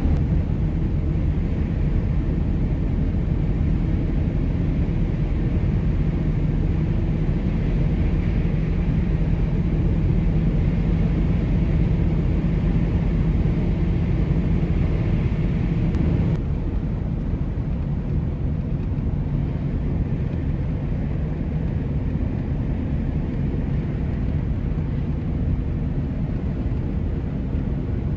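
Steady road and engine rumble of a vehicle being driven, heard from inside the cab. It drops a little in level about halfway through.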